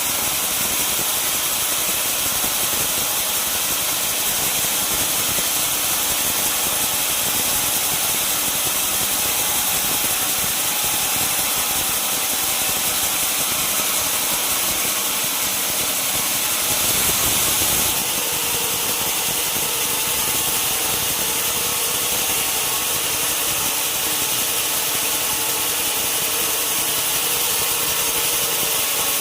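Sawmill machinery running steadily with a constant hiss and hum, shifting briefly about two-thirds of the way through.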